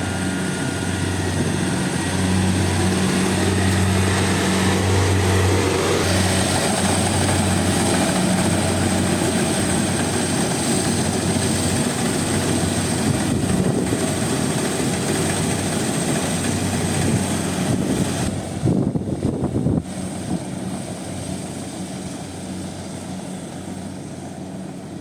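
Rice combine harvester running steadily under load, its diesel engine humming over the noisy clatter of the cutting and threshing gear. About three-quarters of the way through the sound wavers, then settles somewhat quieter.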